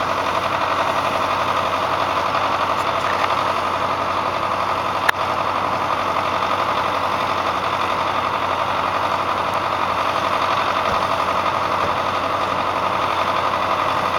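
Tractor engine idling steadily, with a single sharp click about five seconds in.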